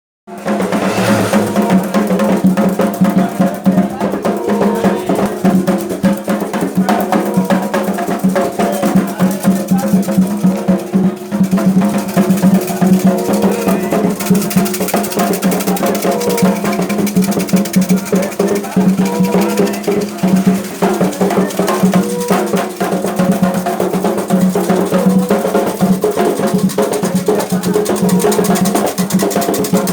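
Candomblé ritual drumming: hand drums playing a fast, dense rhythm with pitched singing or tones beneath, starting abruptly just after the opening.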